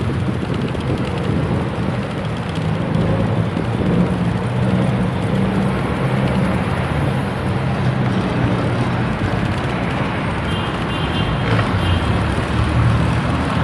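Steady road traffic noise from passing cars, with rushing wind on the microphone.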